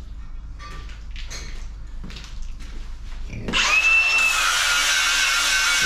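Light clattering and knocks of parts being handled, then, about three and a half seconds in, a power tool starts: a loud, steady, hissing whir with a faint high whistle.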